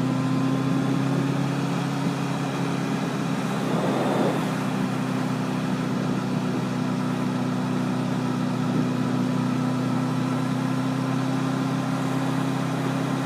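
Honda CBR1000RR's inline-four engine running at a steady, unchanging pitch while the motorcycle cruises.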